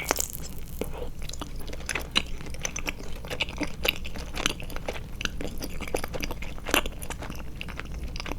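Close-mic chewing of a Trolli Glotzer eyeball gummy: a sharp bite right at the start, then steady chewing with many small clicks.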